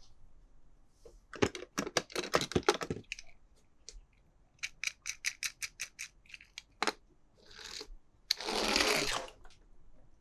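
Toy packaging being handled and opened: a cluster of sharp plastic clicks, then a run of about five even clicks a second, and a loud rustling burst about eight seconds in.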